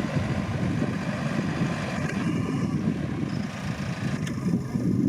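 Rice combine harvester running with steady, low engine noise.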